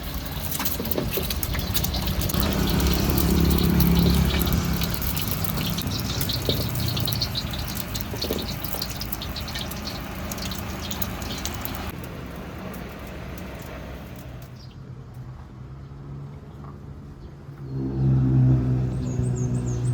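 Food frying hard in a hot wok, a dense sizzle full of sharp crackles that fades after about twelve seconds. Near the end a steady, low engine drone starts, such as a passing motorcycle.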